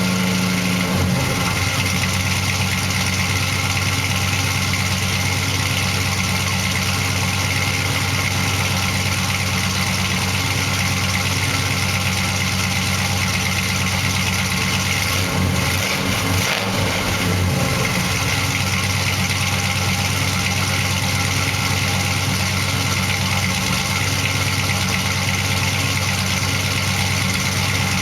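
A 1970 Dodge Charger's 400 cubic inch big block V8 idling steadily after a cold start. The engine note wavers briefly about halfway through and then settles back to an even idle. The carburettor still needs adjusting, but the engine runs smoothly.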